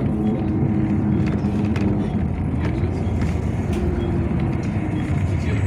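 Yutong ZK6118HGA city bus heard from inside, its engine running steadily with a low hum. The pitch rises briefly about halfway through, with light rattles and clicks throughout.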